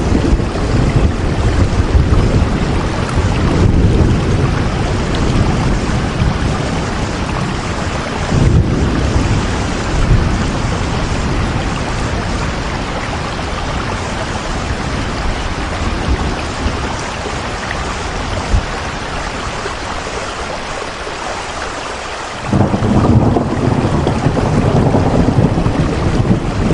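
Heavy rain falling: a steady hiss with a deep rumble beneath it that thins out in the middle and comes back abruptly about 22 seconds in.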